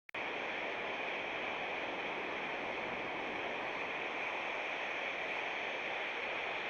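Steady, even hiss from a designed sound-effect sample, cutting in suddenly at the start and holding level throughout.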